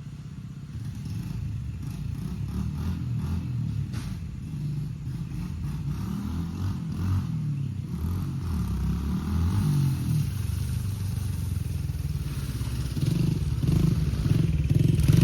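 Small off-road vehicle engine running, growing steadily louder toward the end.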